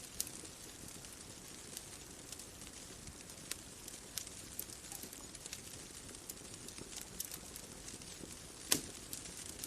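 Bonfire crackling: irregular sharp pops and snaps of burning wood over a soft steady hiss, with one louder pop near the end.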